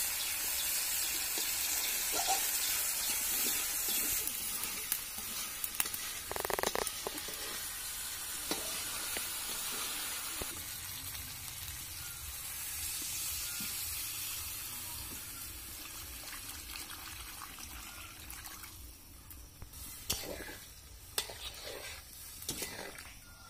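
Vegetable pieces frying in spiced oil in an iron wok, sizzling steadily while a metal spatula stirs and scrapes with scattered clicks. Water is poured in about halfway, and the sizzling gradually dies down to a quieter bubbling curry.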